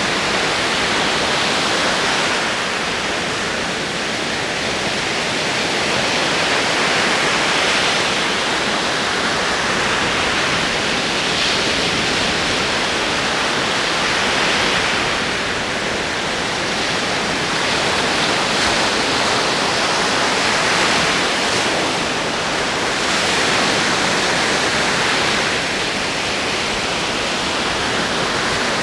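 Ocean waves rolling in: a steady rush of surf that swells and eases every few seconds.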